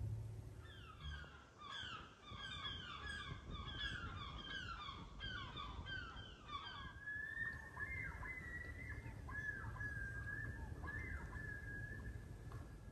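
Birds calling: first a flurry of many short, overlapping calls, each falling in pitch, then one long, steady high note that wavers slightly and stops just before the end.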